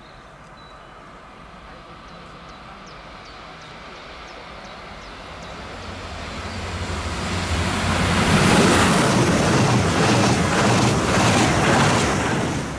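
ICE high-speed train approaching along the main line: a rushing noise that swells over the first eight seconds and stays loud as the train comes by.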